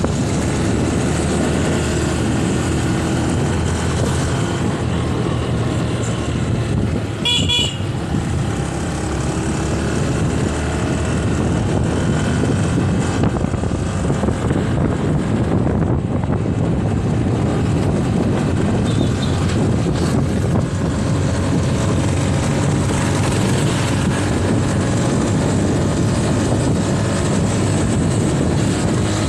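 Honda TMX 125's single-cylinder four-stroke engine running steadily under way, with road and wind noise. A horn toots briefly about seven seconds in.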